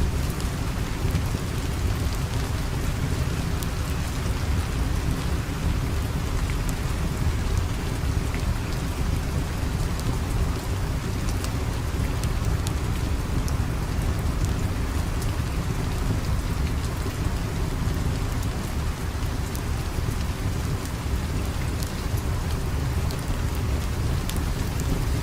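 Steady rain falling, with a deep rumble underneath and scattered sharp clicks.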